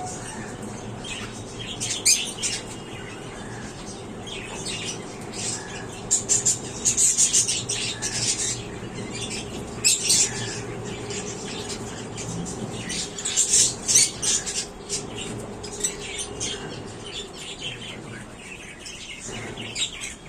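Cockatiels and other pet parrots squawking and chirping in repeated short bursts, busiest in a few clusters, over a faint low steady hum.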